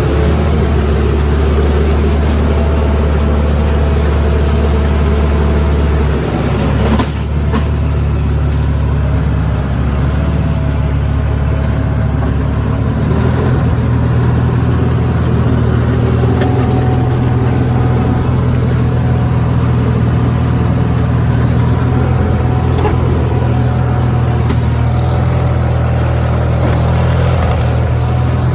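Sears Suburban garden tractor's engine running while warming up on a very cold day. It runs steadily and its speed changes twice, stepping up about halfway through.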